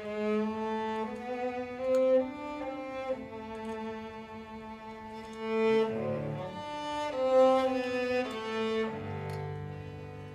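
A solo cello with a chamber string orchestra plays a legato melody of held notes. Low bass notes come in about nine seconds in.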